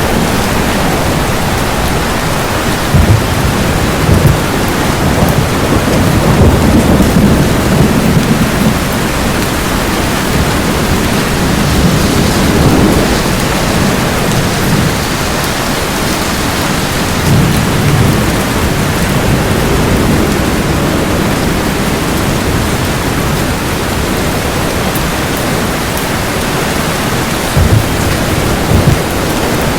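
Steady heavy rain with rolling thunder: low rumbles swell up again and again over the constant hiss of the rain, with the strongest peals a few seconds in and again near the end.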